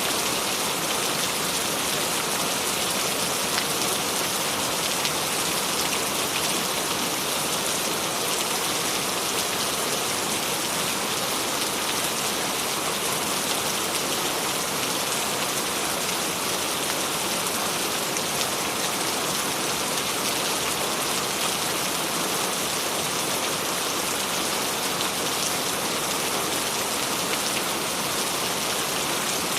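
Steady rain falling on a surface, an even hiss of many small drops with no break or change.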